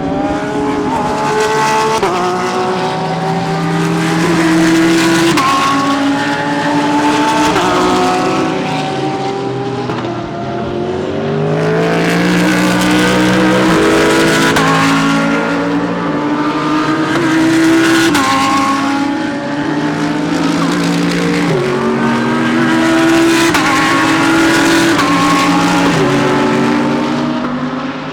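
GT3 race cars accelerating hard, several engines overlapping, each climbing in pitch and dropping back with quick upshifts through the gears as cars come by one after another.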